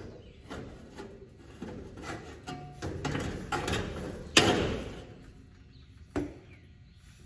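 Tools and metal parts knocking and scraping during hands-on repair work on a combine header, with the loudest knock about four seconds in and another sharp one about six seconds in.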